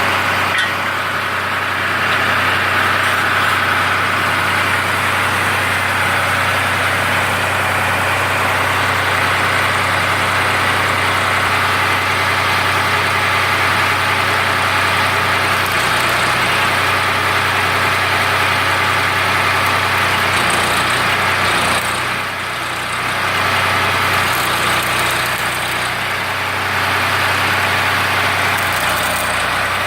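Ford 3600 tractor engine running steadily at a constant speed while it drives a generator, with a short dip in loudness about two-thirds of the way through.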